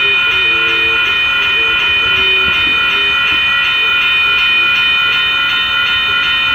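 Train passing close by, a loud steady rumble with several steady high-pitched tones ringing over it throughout.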